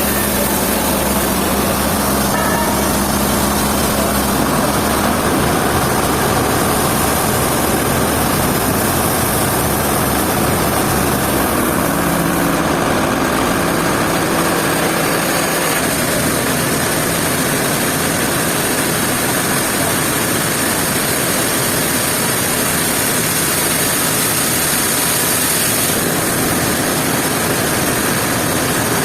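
Sawmill machinery running, a steady, loud engine drone over dense mechanical noise, its low tone shifting a few times.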